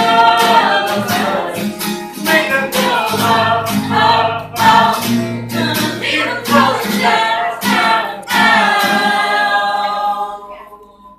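Live singing over instrumental accompaniment, the last sung notes fading out near the end.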